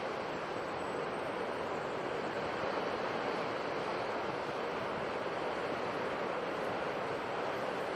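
Steady rushing wash of sea surf, an even noise with no single wave break standing out.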